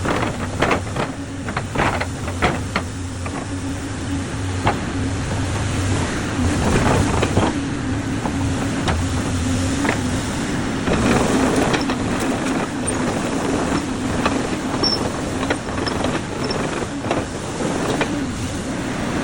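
Excavator's diesel engine running steadily, with scattered metallic clanks and knocks from the machine.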